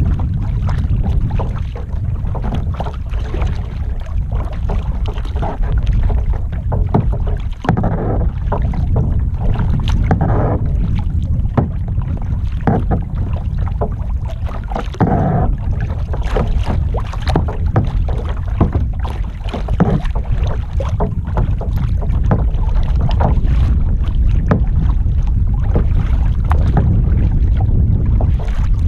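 Kayak paddling: paddle strokes splashing and water washing against a flat-bottomed kayak hull, under steady low wind rumble on the action camera's microphone.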